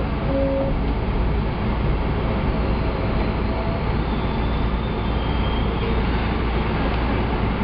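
Electric commuter train pulling out of a station, heard from inside the front car: a steady rumble of running noise with a faint motor whine.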